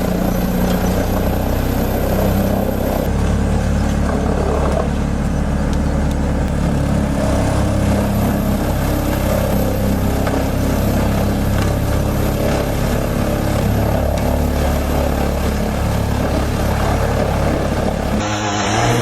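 Heavy diesel engine of a large whole-tree chipper running steadily at high revs under load as it feeds. The sound changes abruptly about three seconds in and again near the end.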